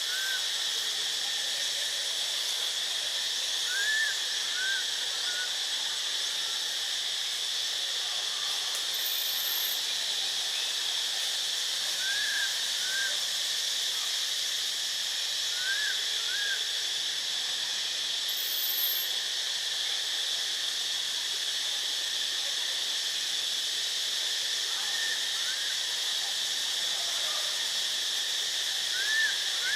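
Steady high insect drone, like cicadas or crickets. Every few seconds it is broken by short chirps, mostly in pairs, each rising then falling in pitch.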